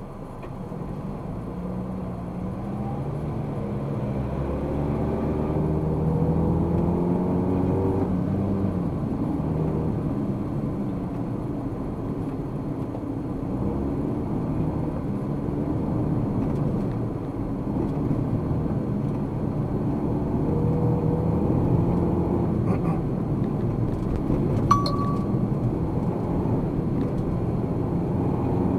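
Car engine and road noise heard inside the cabin as the car pulls away and accelerates, the engine pitch rising several times as it goes up through the gears, then cruising. A brief click near the end.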